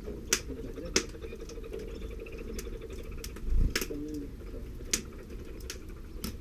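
Canary moving about in its nest close by: sharp, irregular clicks and light scratching, with a dull thump about three and a half seconds in.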